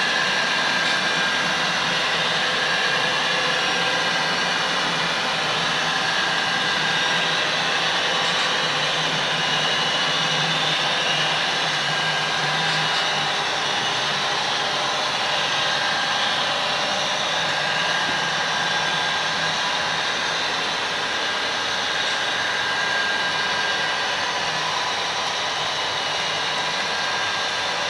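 Model train of four SD40 diesel locomotives running on a layout: a steady whirring hum.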